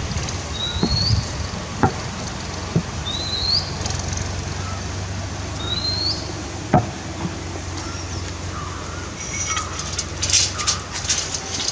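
A bird's short rising whistled call, repeated three times about two and a half seconds apart, over a steady low outdoor hum with a few scattered clicks. Near the end comes a spell of scratchy rustling and clicking.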